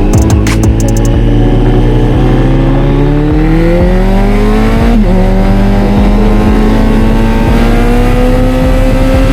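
Kawasaki Z900's inline-four engine accelerating under load, its pitch rising steadily, then dropping sharply about five seconds in as it shifts up a gear, and climbing again more slowly.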